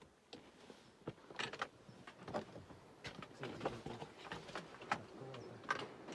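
Faint, irregular clicks and knocks scattered throughout, about a dozen of them.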